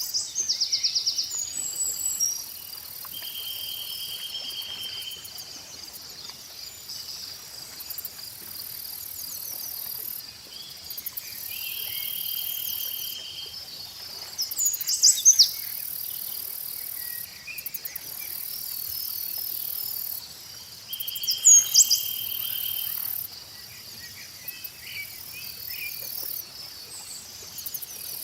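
Steady chorus of crickets and other insects with bird chirps, the chirps loudest in three short clusters: near the start, about halfway and about three quarters through. A buzzing trill comes and goes three times.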